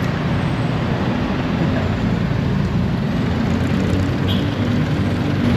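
Motorcycle engine and surrounding traffic heard from the back of a moving motorbike taxi: a steady low rumble with a constant noisy hiss over it.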